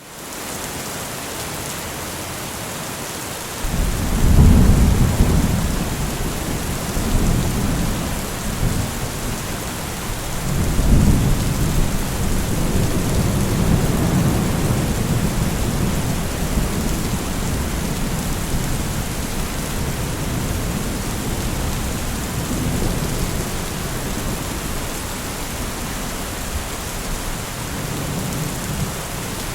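Steady rain with rolling thunder: a deep rumble breaks in about four seconds in, swells again around eleven seconds, and keeps rolling under the rain.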